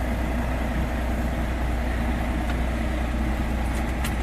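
Heavy diesel lorry engine of a 44-ton truck idling steadily, a constant low hum.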